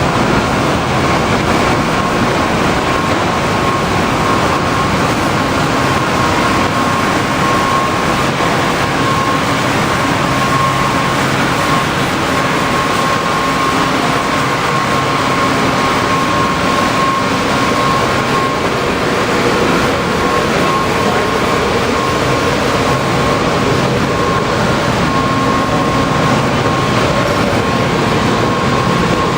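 Train running: a steady, even rumble and hiss with a faint high steady whine through it, and no rhythmic wheel clicks.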